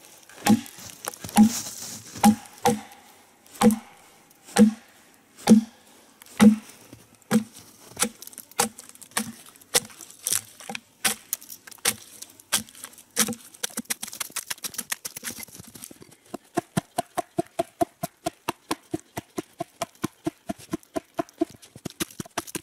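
Taiga axe chopping into a log to break out chips, struck in a steady rhythm about once a second. About two-thirds of the way in it gives way to lighter, quicker strikes, several a second.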